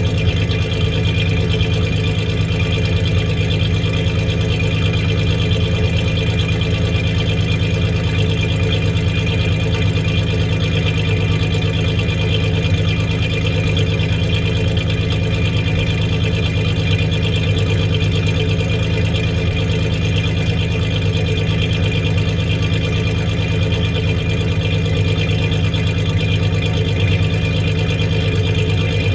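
1993 Ford Ranger's 3.0 V6 engine idling steadily, with a misfiring cylinder.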